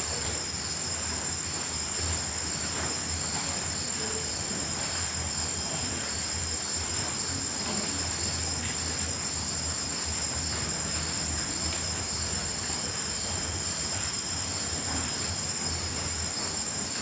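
Crickets chirping in a continuous night chorus: a steady high-pitched trill with a faster pulsing chirp beneath it.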